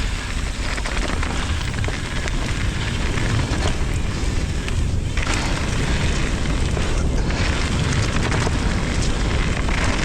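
Wind rumbling on a helmet or chest action camera's microphone over the steady noise of a mountain bike rolling along a dirt singletrack trail.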